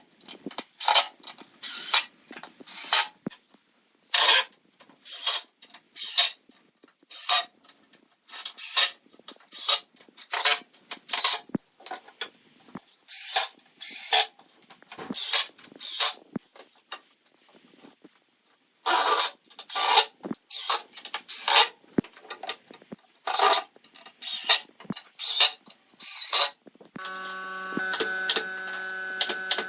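Repeated abrasive hand strokes on wood, like filing or sanding: short scraping rasps coming one or two a second with a brief pause partway. Near the end a steady electric hum with several tones sets in.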